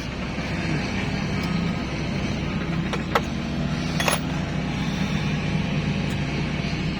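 An engine running steadily at idle, with a few short metallic clinks about three and four seconds in.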